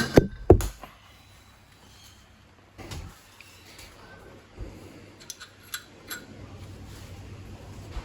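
Handling noises: a few sharp knocks in the first second, the third the loudest, a softer knock about three seconds in, then several quick light clicks, over a low steady hum.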